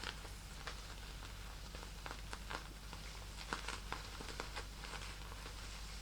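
Fingernails tapping and scratching on a small purse: irregular crisp clicks and light scratches, several a second. The loudest click comes about three and a half seconds in.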